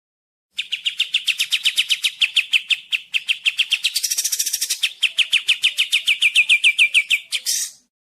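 White-shouldered triller (kapas tembak) singing a fast, rapid-fire run of sharp repeated chirps, about eight a second, starting about half a second in. Around the middle comes a harsher, higher passage, and near the end a short rasping note before the song stops.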